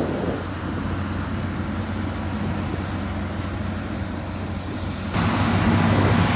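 Diesel engine of heavy road-construction machinery running with a steady low drone. About five seconds in it suddenly becomes louder and fuller.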